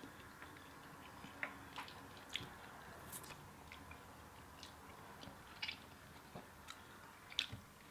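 Faint chewing and mouth smacks of people eating boiled lobster meat: short, scattered clicks about once a second.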